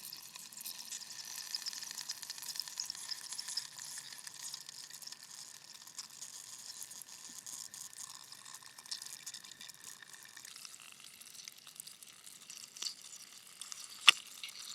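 Steady crackling hiss, a fine, fizzing noise texture with a faint tone held through it, and one sharp click near the end.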